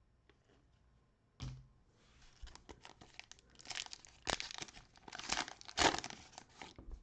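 Plastic cello wrapper of a Panini Prizm basketball card pack being torn open and crinkled in the hands, with several louder rips over a few seconds. A single sharp knock comes just before it.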